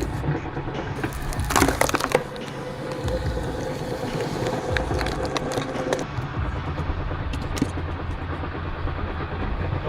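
Wood-splitting machine running with a steady low drone, and a log cracking and splintering apart about one and a half seconds in. A steady whine from the machine holds for a few seconds midway.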